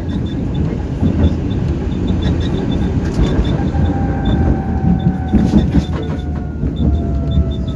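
Tram running on rails: a steady rumble of wheels on track with scattered clicks, and from about halfway a thin electric motor whine that slowly falls in pitch.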